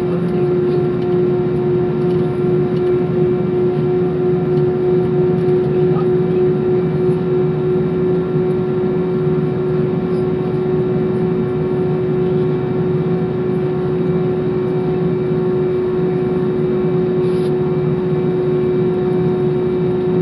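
Airliner jet engines running with a steady drone and a constant mid-pitched tone over a rushing noise, holding one level without rising or falling.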